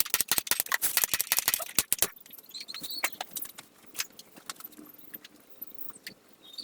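Rapid clicking and rattling of a thin plastic container and a knife being handled for about two seconds, then scattered light clicks over a faint hum.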